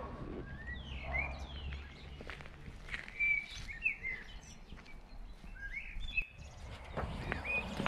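Birds singing outdoors: a run of short chirps and whistled glides, over a steady low rumble, with a few faint clicks.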